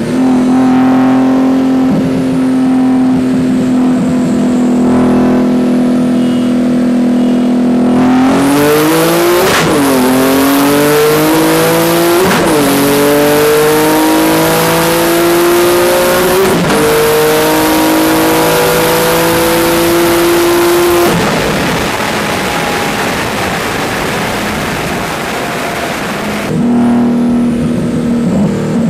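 Audi S4's twin-turbo V6, upgraded with K04 turbos, heard from inside the cabin. It runs steadily at highway cruise, then about eight seconds in goes to full throttle and pulls hard through three upshifts, the pitch climbing and dropping back at each shift. At about 21 s it lifts off, and it later settles back to a steady cruising drone.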